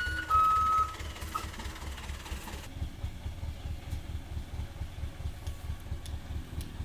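Truck engine idling with a low, even throb. A reversing beeper sounds once more in the first second, then stops.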